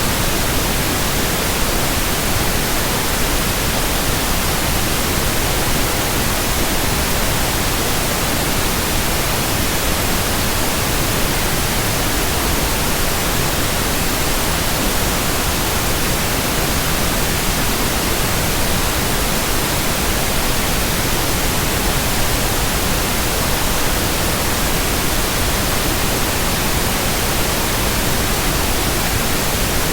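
Steady white noise: an even, unchanging hiss spread across all pitches, with no rhythm, tones or swells.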